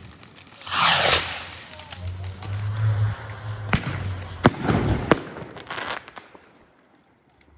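Fireworks going off: a loud hissing rush falling in pitch about a second in, then several sharp bangs with crackling a little later, dying away near the end.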